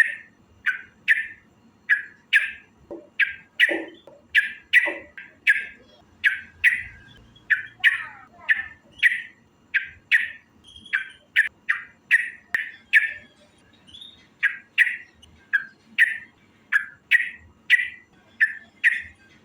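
Yellow-vented bulbul (trucukan) calling: short, harsh notes repeated at about two a second, with a few lower notes mixed in about three to five seconds in.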